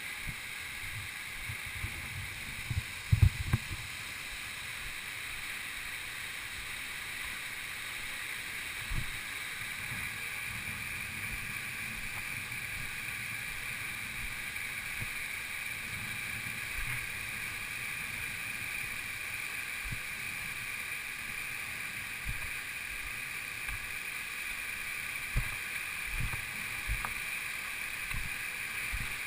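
Steady hiss of flowing water, with a cluster of sharp low knocks about three seconds in and a few lighter bumps later on.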